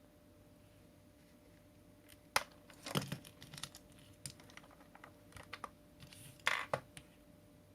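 Plastic parts of a Hitachi PV-BFH900 cordless stick vacuum being handled, with irregular clicks and knocks; a sharp click about two and a half seconds in, a cluster around three seconds, and a louder pair near the end. The vacuum's motor is not running.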